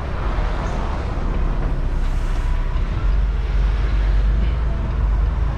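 Peterbilt semi truck's diesel engine running at low speed, heard from inside the cab: a steady low hum that gets a little louder about three seconds in.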